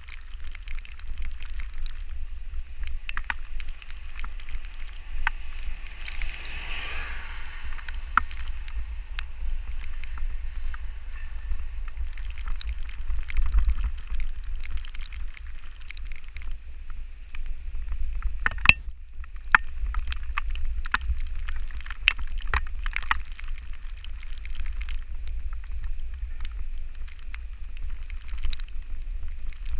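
Wind buffeting the microphone as a steady low rumble with a hiss, broken by scattered sharp ticks and clicks, and a brief rushing swell about six seconds in.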